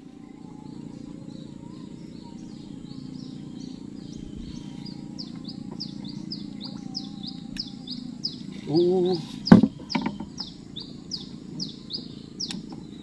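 A bird calling in a long run of short, high falling notes, about two a second, growing stronger after the first few seconds, over a steady low hum. A little past the middle, a brief wavering pitched sound and a sharp knock, the loudest moment, break in, followed by a few smaller clicks.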